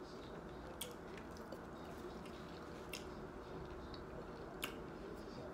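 Faint eating sounds: a few soft, scattered mouth clicks over quiet room tone.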